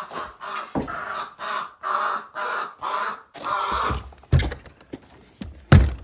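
Chickens squawking in a run of repeated calls, about two a second, for the first three seconds; then a few dull thumps and rustling near the end.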